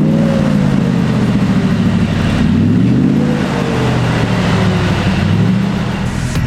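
Ford Lightning pickup's V8 exhaust being revved, the pitch rising and falling twice with a climb again near the end.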